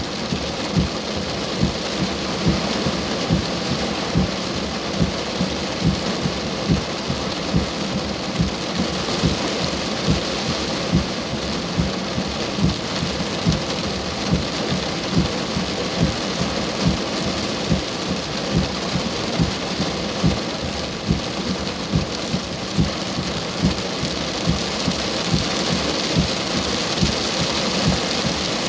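Heavy rain hissing steadily. A short low knock repeats evenly, about three times every two seconds.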